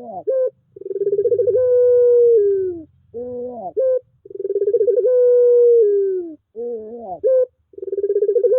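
Puter pelung, a cooing collared-dove breed, cooing repeatedly. Each long held coo starts with a fast pulsing and falls away at the end, and is followed by a few short rising coos. The pattern repeats about every three and a half seconds.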